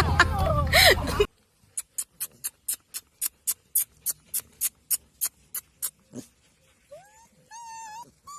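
About a second of loud music and voices cuts off. Then come sharp, evenly spaced clicks, about four a second, for some four seconds. Near the end a dog whines in drawn-out high calls that rise and then hold.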